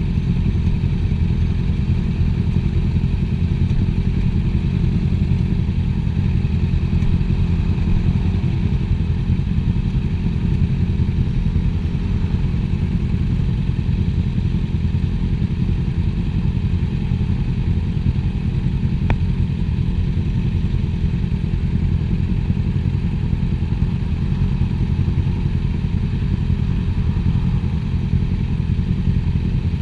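Motorcycle running steadily with a heavy, even low rumble and no change in speed. A single short click about two-thirds of the way through.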